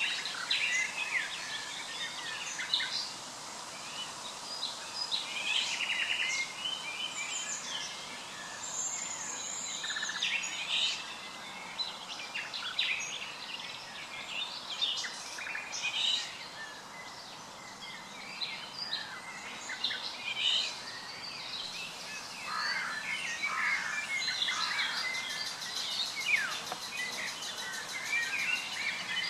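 Several songbirds singing and calling in short chirps and trills over a steady outdoor background hiss.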